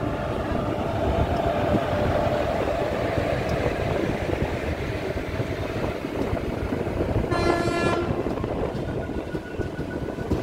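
Passenger train hauled by a WAP-4 electric locomotive passing close by, its coaches' wheels rumbling steadily on the rails. A brief train horn blast sounds about seven seconds in.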